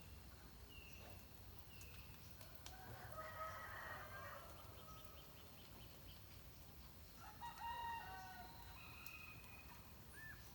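A rooster crowing faintly twice, once about three seconds in and again near the eight-second mark, with a few short high bird chirps between.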